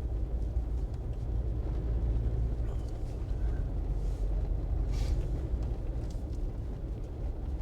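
Steady low rumble of a Jeep driving, its engine and tyres heard from inside the soft-top cabin, with two brief faint noises about four and five seconds in.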